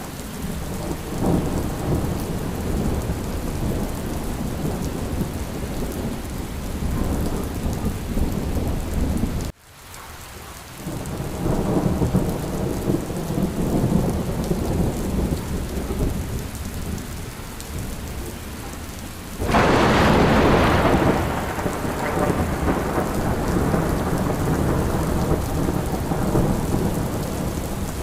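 Steady heavy rain with low, rolling thunder. The sound drops out briefly about a third of the way in. About two-thirds through, a sudden loud thunderclap rises over the rain and rumbles away over a couple of seconds.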